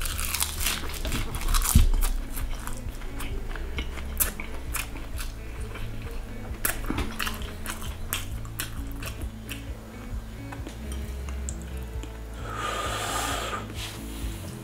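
Biting into and chewing a nori-wrapped hand roll of rice and raw salmon: a bite at the start, then chewing with many sharp crackling clicks, over steady background music. A short hiss comes near the end.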